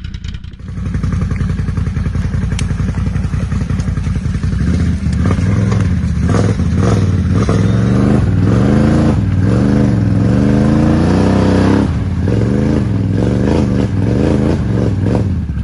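ATV engine running, then revved up and down over and over from about five seconds in, its pitch rising and falling with each blip of the throttle.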